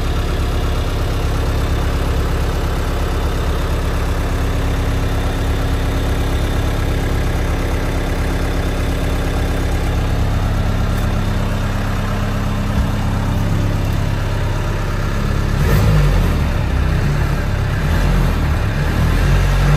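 Land Rover 109 Series III Santana engine idling steadily. About three-quarters of the way through the sound grows louder and less even, as if the revs pick up.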